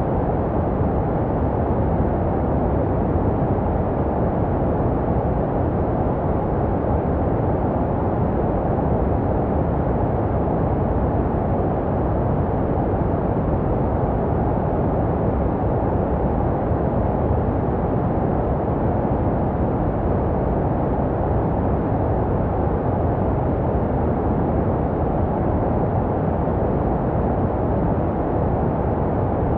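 Steady synthetic white noise filtered to a deep, muffled hiss with the high end rolled off, unchanging throughout.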